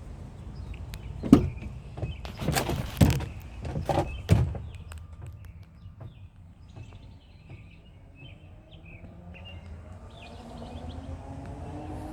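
A few loud clunks and thumps, like a pickup truck's door being opened and shut, clustered in the first few seconds. After that comes a faint hum that slowly rises in pitch toward the end.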